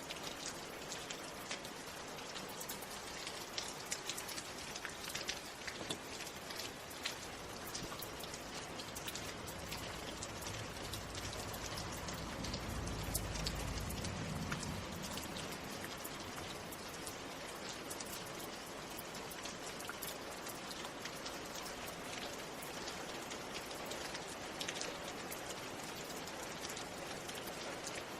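Steady rain, with many individual drops pattering close by. A low rumble swells and fades about halfway through.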